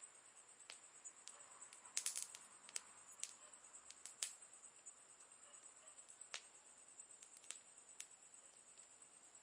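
Campfire crackling: burning wood giving off sharp, irregular pops and snaps, with a quick run of pops about two seconds in.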